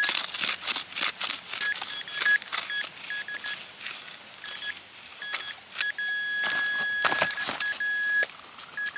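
Metal-detecting pinpointer beeping a steady high tone in short on-off bursts, held continuously for about two seconds in the second half as it sits on a buried nickel, over repeated scraping and crunching of digging in soil and grass.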